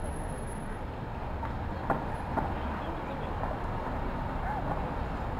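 City street ambience: a steady rumble of traffic, with two sharp knocks about two seconds in.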